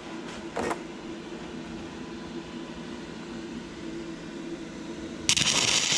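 Steady machine hum, then about five seconds in a stick-welding arc strikes and crackles with a loud, harsh hiss as a 6011 rod burns on thin, rusty and painted sheet metal.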